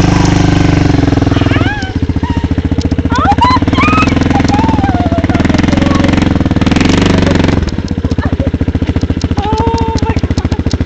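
A small engine running with a fast, even pulse, dropping to a quieter idle about eight seconds in, with voices calling out over it.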